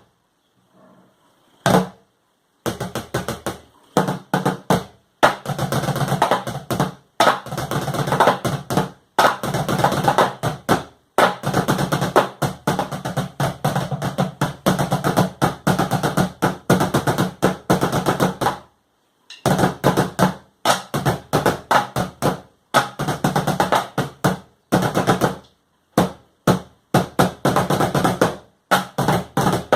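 Buckets played as drums: fast, rhythmic patterns of strikes in phrases broken by short pauses, with a near-silent gap at the start and a brief stop a little past halfway.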